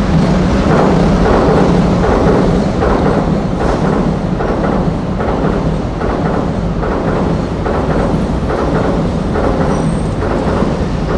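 A Shinkansen bullet train running over the rail joints of a scissors crossing on an elevated viaduct, a long run of rhythmic clacking, about two to three clacks a second, heard from the street below and echoing among the houses.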